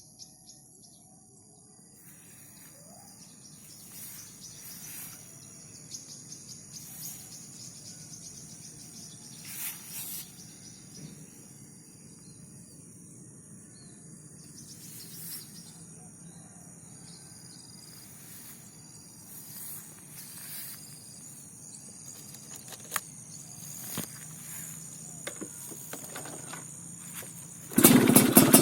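Crickets and insects buzzing steadily and faintly, with a few short chirps. About a second before the end, a Yamaha F1ZR two-stroke engine breathing through a BM Power aftermarket exhaust starts suddenly and loudly.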